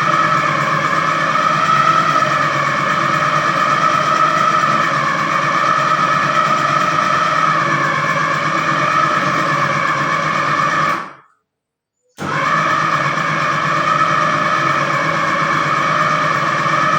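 Electric blender motor running steadily as it pounds cooked yam into dough, its pitch wavering slightly. About eleven seconds in it stops and starts again about a second later.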